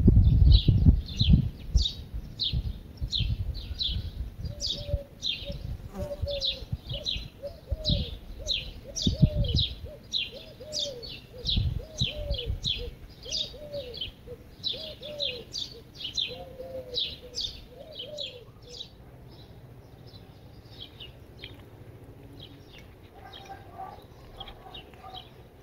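Small birds chirping in a quick, steady series of short high notes, two or three a second, thinning out in the last few seconds. A second bird repeats a lower, falling note for several seconds in the middle, and there is a low rumbling in the first ten seconds.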